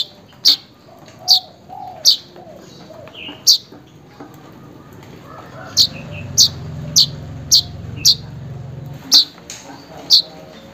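Manyar weaver bird calling: short, sharp, high chirps repeated at irregular intervals, some in quick runs of four or five, with a low hum for a few seconds in the middle.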